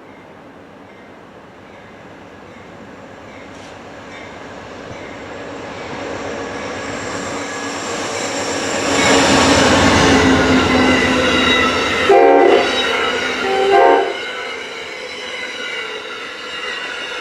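Diesel passenger train approaching and passing close by, growing steadily louder to a loud rush about nine seconds in. It sounds two short horn blasts, near twelve and fourteen seconds in, then its cars roll on by with high steady wheel squeal.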